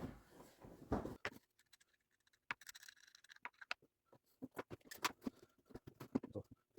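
Scattered light clicks and scrapes of hand tools being handled over a wooden board while a gauge template is measured and marked out, with a soft thud about a second in.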